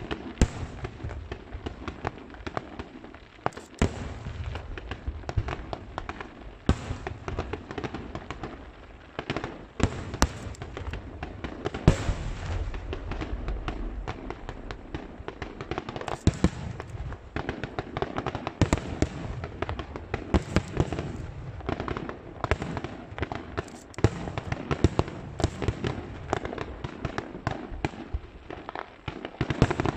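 Aerial fireworks display: a continuous barrage of shells bursting with sharp bangs and crackling, over a steady low rumble, several louder booms standing out.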